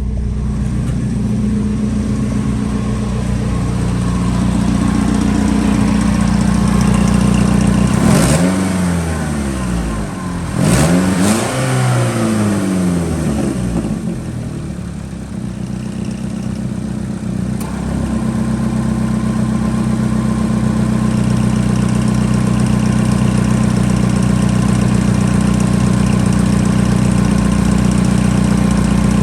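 2011 Chevrolet Equinox engine idling, revved twice in quick succession about a third of the way in, each rev rising and falling back to idle, then idling steadily.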